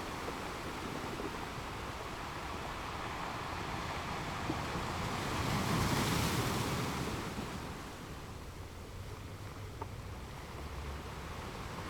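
Sea waves washing on the shore, with one wave surging up about five seconds in and then ebbing away.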